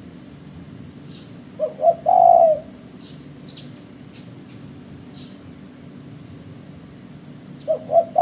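Spotted dove cooing: two short notes and then a longer held coo about a second and a half in, with the same phrase starting again near the end. Faint high chirps of small birds sound in the background.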